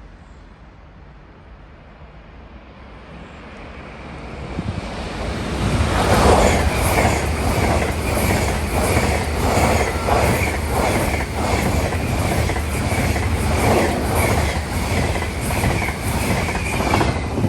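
Train running through a railway station: it builds up over a few seconds, then passes loudly with a regular clickety-clack of wheels over rail joints and a steady high wheel squeal, cutting off sharply near the end.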